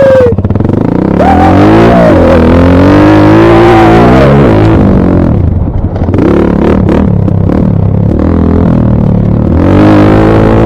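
Dirt bike engine revving hard under acceleration. The revs climb from about a second in, fall off around four and a half seconds, and rise again near the end.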